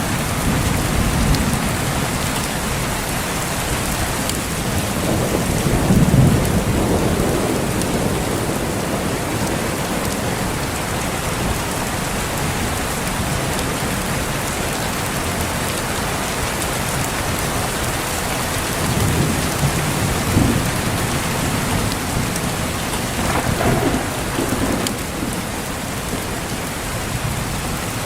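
Steady heavy rain with rolling thunder rumbling low several times, loudest about six seconds in and again near the end.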